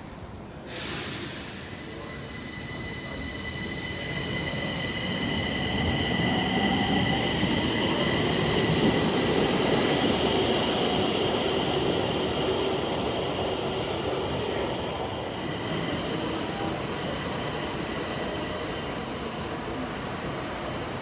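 Stockholm Metro train running on the track: a rumble with several steady high-pitched tones above it, growing louder toward the middle and easing off later. A sharp hiss-like burst comes about a second in.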